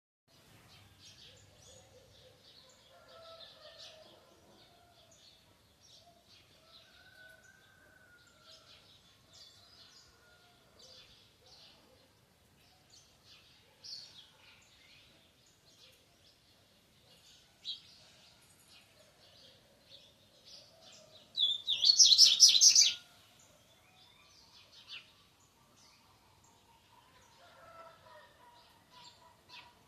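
A songbird singing the 'bitola' song style in short chirping phrases, with one much louder phrase about two-thirds of the way through. The song is nearly fixed: the bird is almost 'encartado', close to a finished adult song.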